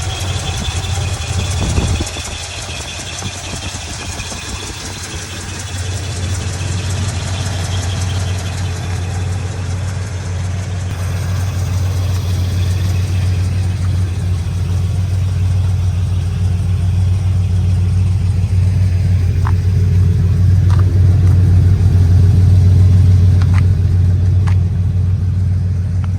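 1986 Ford F250's 460 V8 engine idling steadily with a low, even hum that grows gradually louder through the second half.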